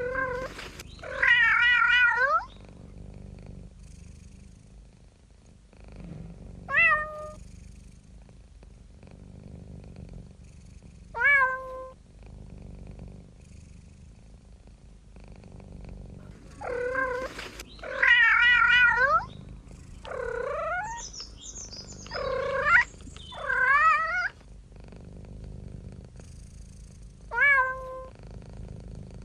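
Domestic cat meowing about nine times, some short mews and some longer, wavering, drawn-out meows, with a cluster of calls in the second half, over a low steady rumble.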